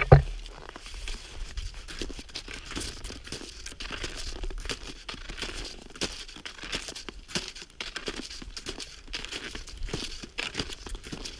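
Cross-country skiing on a cold, freshly groomed track: skis and poles in frozen snow make a continuous, irregular crunching and crackling, after a single loud thump at the start.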